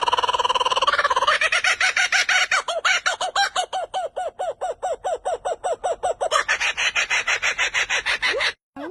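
A bird calling: a held note that breaks about a second in into a long, fast run of repeated notes, about six a second, which cuts off abruptly near the end.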